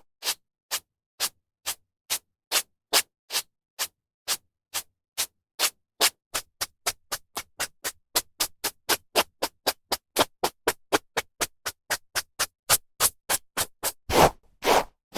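Hairbrush bristles drawn through hair in short, even strokes, about two a second at first and quickening to about four a second midway, then two longer, louder strokes near the end.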